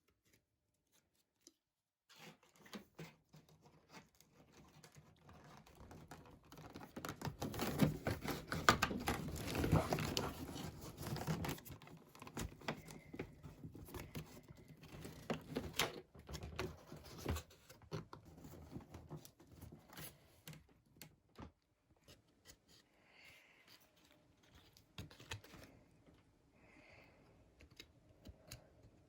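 Paintbrush stroking and dabbing paint onto a cardboard box: a close, continuous run of scratchy rubs and light taps, busiest and loudest a few seconds in.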